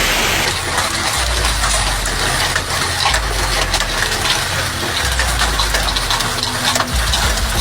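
Hailstones pelting down in a dense clatter of many small impacts over a steady rushing noise, with a deep low rumble underneath that shifts every couple of seconds.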